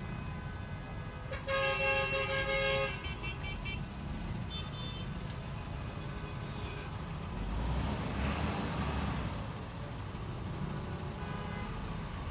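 Honda ADV 150 scooter riding in traffic with a steady low engine and road rumble. A vehicle horn sounds once for about a second and a half near the start, the loudest sound, and a louder vehicle swells past about eight seconds in.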